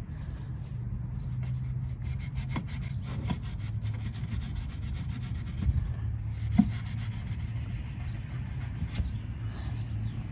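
Wet melamine foam sponge (magic eraser) scrubbing a chrome exhaust tip in rapid back-and-forth strokes, rubbing off exhaust residue.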